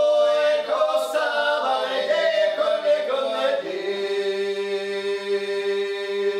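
Small folk ensemble singing a traditional multi-voiced song a cappella, the voices in close harmony. The song closes on a long held chord that stops near the end.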